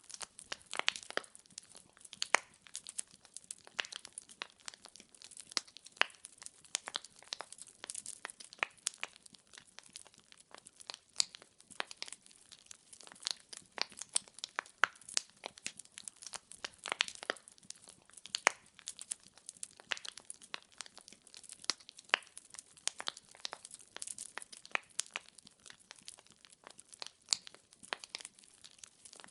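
Wood fire burning in a fireplace: logs crackling and popping with many irregular sharp snaps, several a second.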